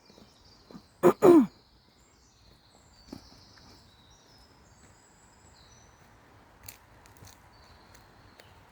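Two short, loud animal calls in quick succession, each falling in pitch, over faint high bird chirping.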